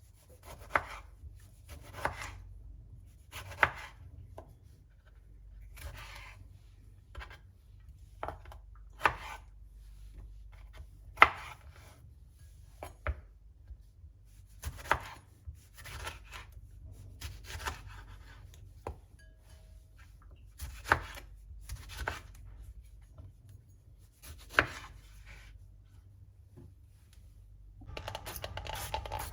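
Knife chopping on a cutting board: slow, unevenly spaced strokes, about one a second, over a low steady hum. Just before the end, a steady rushing noise with a held tone starts.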